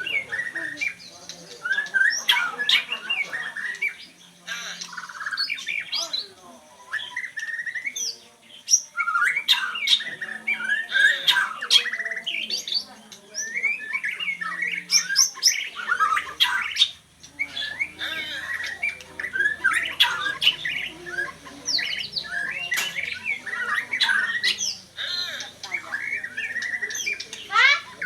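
A songbird singing and calling in a rapid, varied run of chirps, whistled glides and harsh squawking notes, with a few brief pauses.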